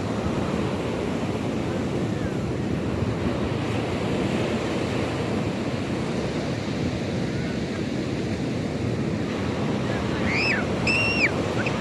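Sea surf washing steadily, with wind noise on the microphone; near the end a bird gives two short calls.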